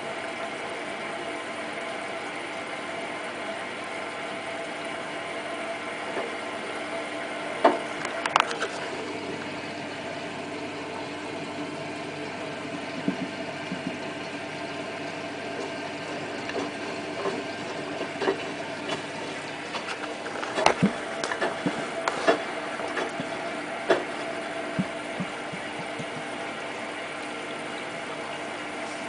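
Hotpoint WT960 washing machine running early in its wash cycle: a steady mechanical hum, with scattered sharp clicks and knocks around 8 seconds in and again in the second half.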